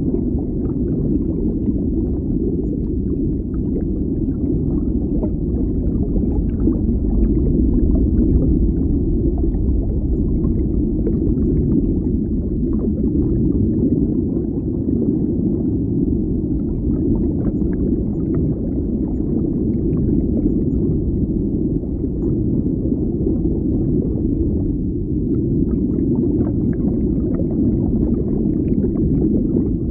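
Underwater ambience: a steady, deep, muffled rumble, with faint scattered crackles above it.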